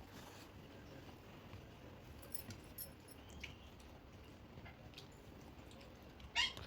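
Faint close-up eating sounds: soft chewing and small wet mouth clicks, scattered through. One short, sharper and louder sound comes near the end.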